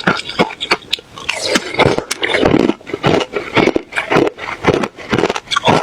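A person biting and chewing ice: fast, irregular crunching cracks, several a second, thickest about one and a half to three seconds in.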